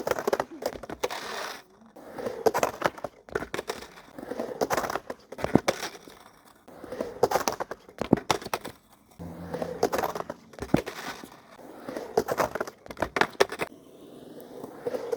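Skateboard on pavement: a noisy scraping, rolling clatter with sharp clicks, coming back in a regular pattern about every two and a half seconds.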